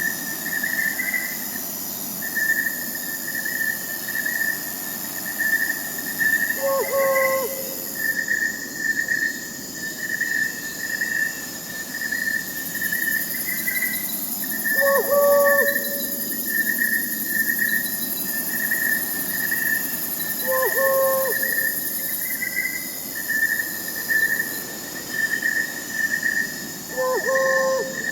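Night forest ambience: crickets chirping in a steady pulsing trill over a high insect hiss. An owl hoots about every six to seven seconds, five times.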